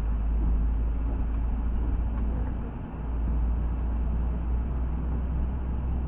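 Cabin noise of a LiAZ 6213.65 articulated city bus under way: a steady low engine rumble with road noise, dipping briefly about three seconds in.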